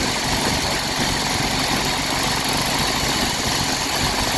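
John Deere 317 garden tractor engine idling steadily.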